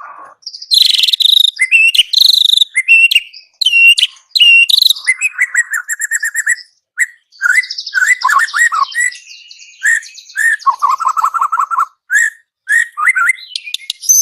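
White-rumped shama (murai batu) singing a long, varied song of loud whistled phrases, rapid trills and quick repeated chattering notes, with brief pauses between phrases.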